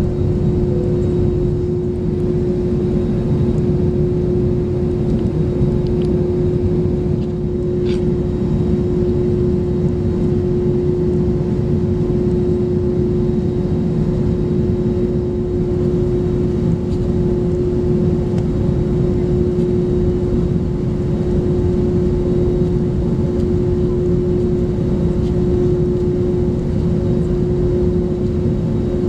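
Airbus A321neo cabin noise: the steady rumble of engines and airflow heard from an economy seat, with a constant low hum.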